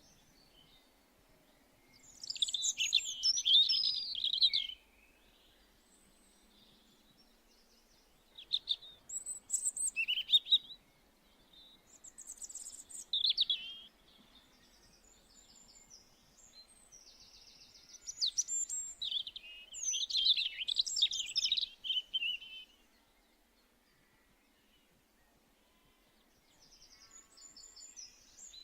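A small songbird singing: four phrases of rapid, warbling high notes, each lasting one to four seconds, with quiet gaps between them. Near the end, fainter rapid repeated notes begin.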